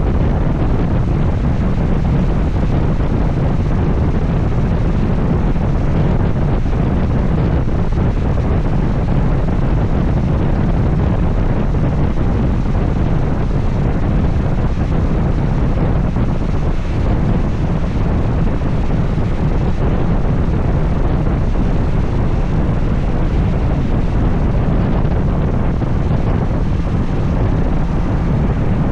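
Steady wind rumble buffeting the microphone of an action camera on a moving motorcycle, with the Honda Transalp XL750's running drowned under it.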